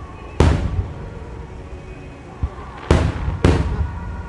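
Large aerial firework shells (No. 7 size) bursting: three deep booms with long rolling rumbles, one about half a second in and two close together near the end.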